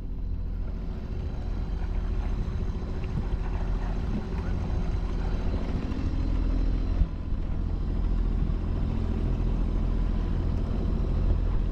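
A sailing yacht's engine running steadily while the boat motors along, a continuous low drone.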